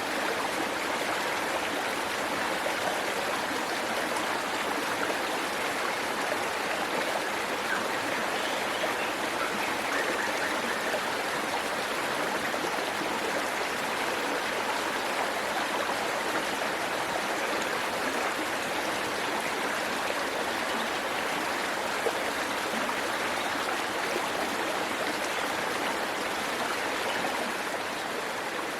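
Waterfall, water rushing steadily without a break.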